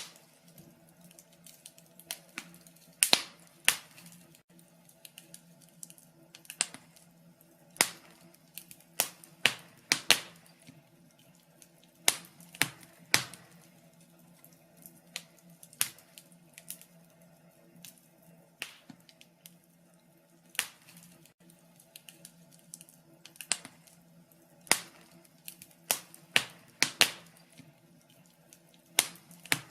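Wood fire crackling in a fireplace, with irregular sharp pops and snaps at uneven gaps, some in quick clusters, over a faint steady hum.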